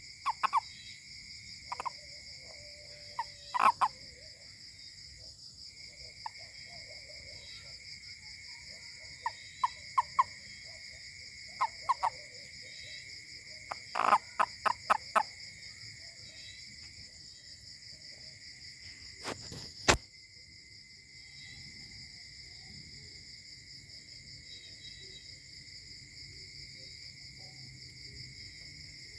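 A toad calling in short croaks, some single and some in quick runs of four or five, over a steady high trilling chorus of insects. A single sharp click about two-thirds of the way in.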